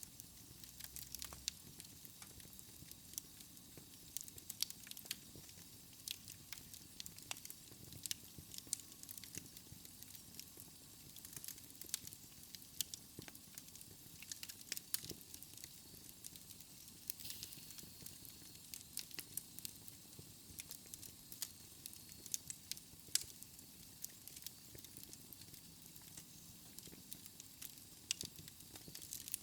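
Wood logs burning in a fireplace: frequent, irregular crackles and sharp pops over a soft, steady hiss of flame.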